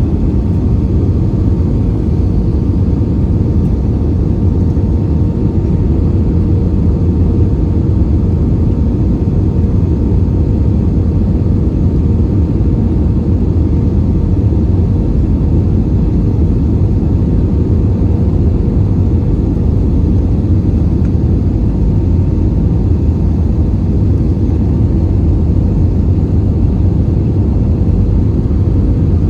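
Steady cabin roar of an Airbus A320-232 in flight, heard from a passenger seat: the IAE V2500 turbofans and rushing airflow make a deep, even rumble, with a faint steady hum on top.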